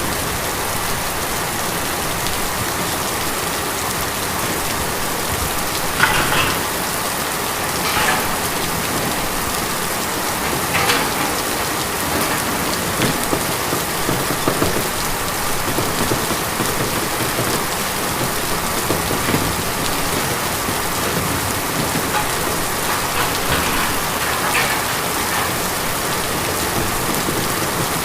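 Steady rain drumming on a tin roof, an even dense patter. Now and then, about half a dozen times, a single louder drop or drip hits the metal.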